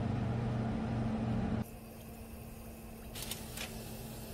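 A steady low hum that cuts off suddenly about one and a half seconds in, leaving a quieter kitchen hiss. Near the end come two brief scrapes as a slotted metal spatula is slid under a raw pretzel on parchment paper.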